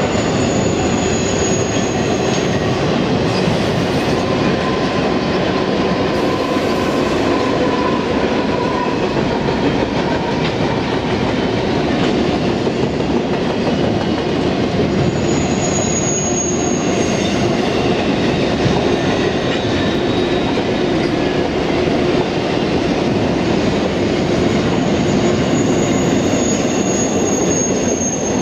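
Freight train of double-stack container well cars rolling past: a steady loud rumble of steel wheels on rail with clickety-clack. Brief high-pitched wheel squeals come about a second in, again around the middle, and near the end.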